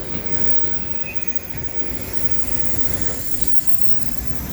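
Loaded autorack freight cars passing at speed: a steady, loud rumble and rattle of steel wheels on the rails.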